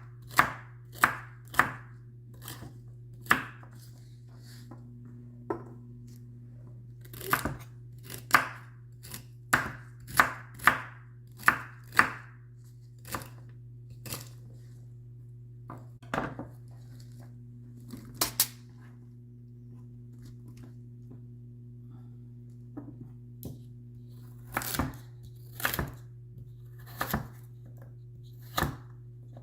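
Knife chopping vegetables on a cutting board: sharp single chops, in runs of about two a second with pauses between, over a steady low hum.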